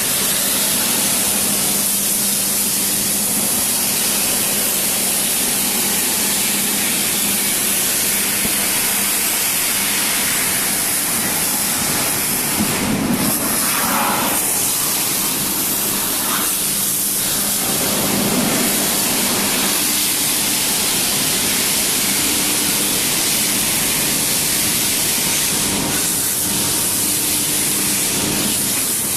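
Firework burning with a steady, spraying hiss, swelling briefly a couple of times partway through.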